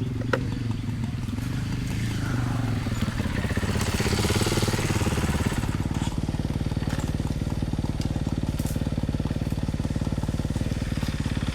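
Small youth dirt bike engines running with a fast, steady pulse; the sound swells about four seconds in.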